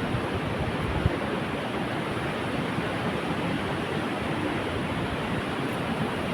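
Steady noise of strong sea wind buffeting the microphone, with surf behind it, and a single short knock about a second in.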